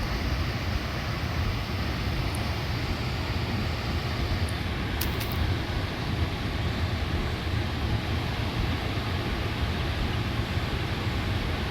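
Steady road and engine noise heard inside a moving vehicle: a constant low rumble under an even hiss, with a couple of faint ticks about halfway through.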